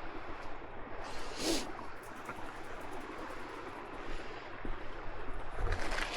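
Shoreline ambience of small waves washing over a rocky beach, a steady rushing of water, with a short bright rustle about a second and a half in and a few light clicks near the end.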